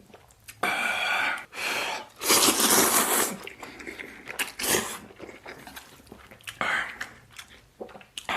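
Instant noodles slurped in loud sucking drags, three close together in the first few seconds (the third the longest and loudest), then two shorter slurps later, with chewing in between.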